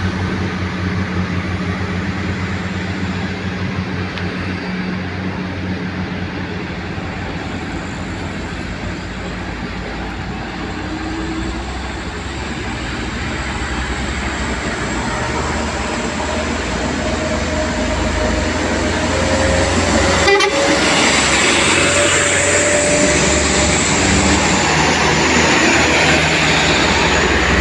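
Heavy sugarcane truck's diesel engine running under load. It eases off slightly, then grows steadily louder from about halfway as the truck draws near.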